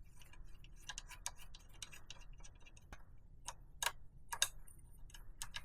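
Spanner working the locking nut on a dirt bike's rear brake pedal adjuster: a string of irregular light metallic clicks and taps, a few louder ones past the middle.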